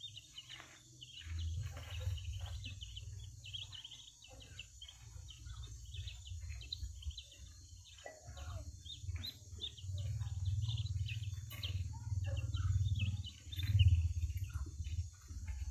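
Small birds chirping in quick, repeated notes over a steady low rumble.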